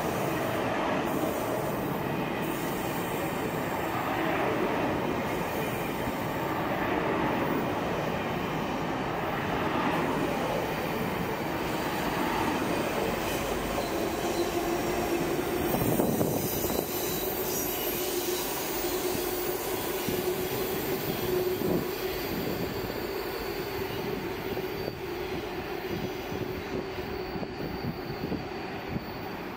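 Deutsche Bahn ICE high-speed trains moving along the platform close by, a continuous rumble of wheels and running gear. About halfway through there is a brief louder bang, then a steady wheel squeal holds for several seconds over the rumble, and it eases off toward the end.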